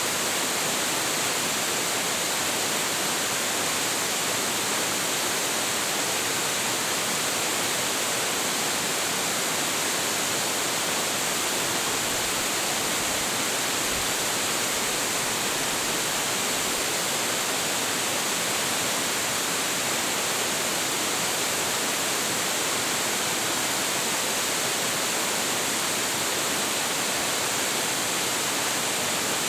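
Large waterfall pouring steadily: a continuous, even rush of falling water with no change through the stretch.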